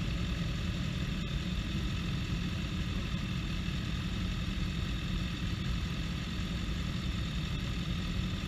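Motorcycle engines idling steadily, an even hum that does not change.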